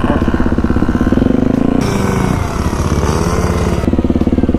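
Off-road motorcycle engine running with a fast, steady pulse, and a hiss joining in for about two seconds in the middle.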